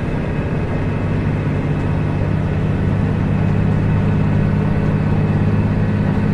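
Heavy truck's engine running steadily with a low, rough drone.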